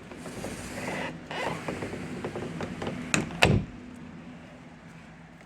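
A door being opened: handle and latch clicking and rattling after a rush of hiss, with two sharp knocks a little over three seconds in.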